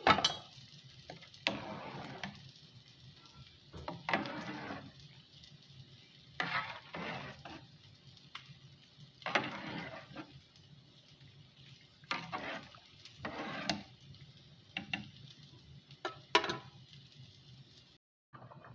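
A utensil stirring and scraping food in a pot, in separate strokes every couple of seconds.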